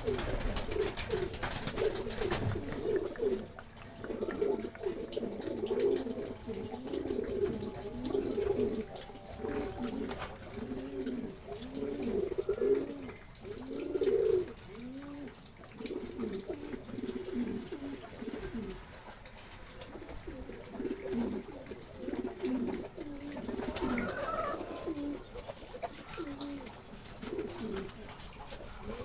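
Pigeons cooing over and over, a long string of low, rolling coos that keep coming one after another.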